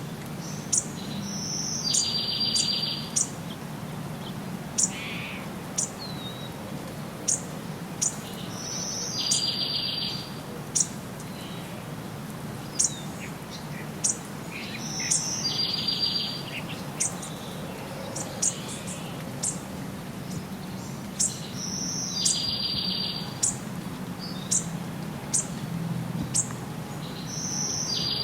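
Birds singing: sharp high chirps scattered throughout, and a longer buzzy call that comes back about every six to seven seconds, over a faint steady low rumble.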